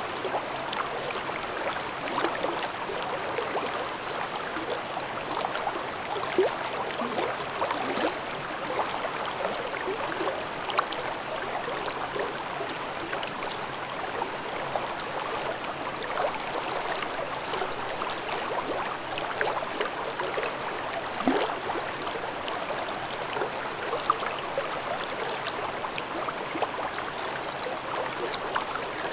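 Mountain stream babbling over rocks: steady, continuous rushing water with small splashes and gurgles throughout.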